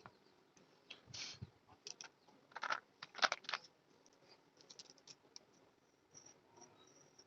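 Scratchy strokes and light taps of a drawing or colouring tool on paper, in a few short bursts, the strongest in the first half.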